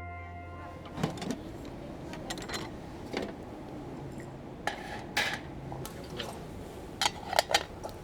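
Metal camp cookware and utensils being handled: scattered clinks and knocks, with a quick cluster of sharper ones about seven seconds in.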